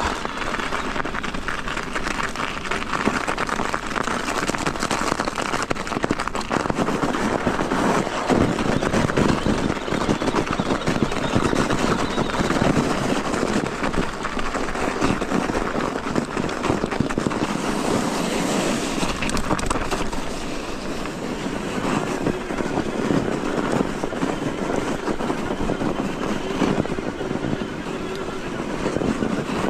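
Electric mountain bike riding a snowy trail: steady tyre and ride noise with frequent small knocks and rattles, and wind on the microphone.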